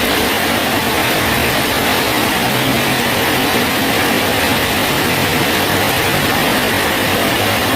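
Steady heavy rain falling on a bridge, an even, unbroken hiss of drops.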